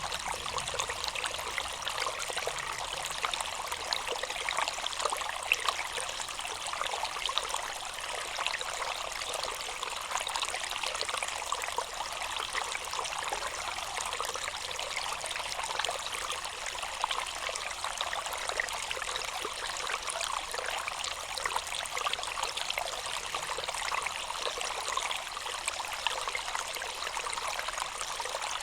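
Water trickling and splashing steadily, a continuous stream with fine splashy detail.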